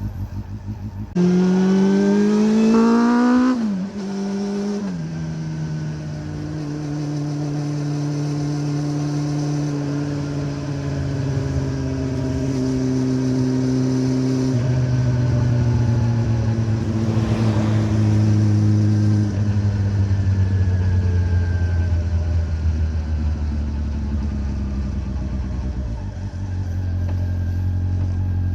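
Honda CB400 Revo inline-four with a Moriwaki exhaust revving hard through the gears: the engine pitch climbs fast about a second in, then drops sharply twice at the upshifts. It then runs steadily at cruising speed, its pitch rising and falling slowly.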